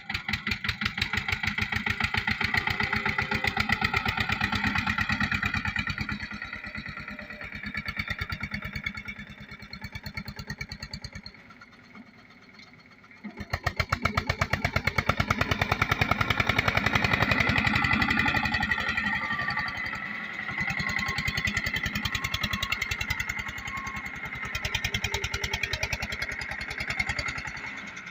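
Eicher 242 tractor's diesel engine working under load, revving hard and easing off over and over as it strains to pull the tractor out of the water it is stuck in. Near the middle the engine drops almost to nothing for a couple of seconds, then picks up again to full revs.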